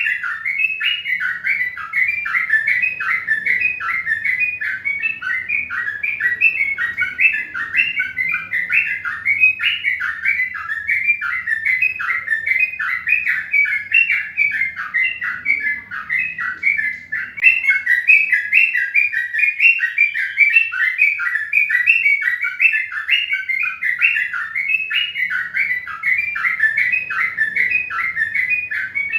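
Small birds chirping continuously in a rapid, unbroken run of short, high chirps, over a faint steady low hum.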